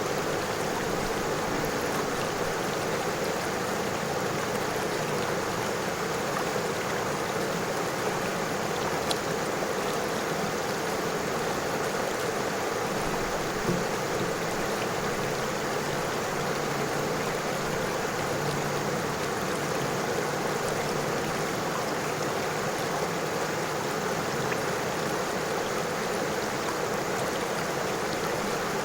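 River water flowing and rippling over stones: a steady, even rush of water.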